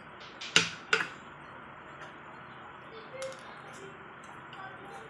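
Utensils clicking sharply against a dish twice, about half a second and a second in, then fainter scattered clicks over a steady hiss.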